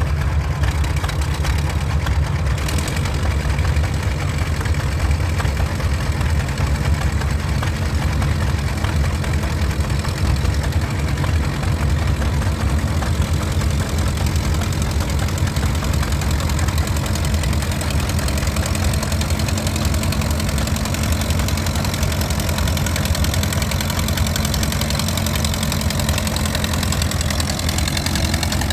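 Vintage farm tractor engine running at a steady, unchanging speed, with a strong low-pitched throb.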